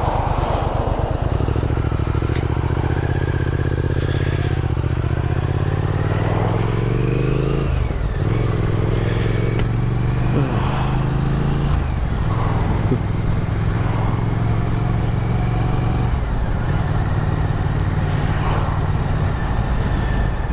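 Motorcycle engine pulling away and accelerating through the gears, its pitch climbing in each gear and dropping at each of three upshifts.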